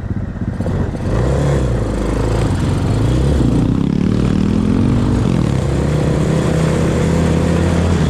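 Off-road vehicle engine revving, its pitch rising and falling repeatedly and louder from about a second in.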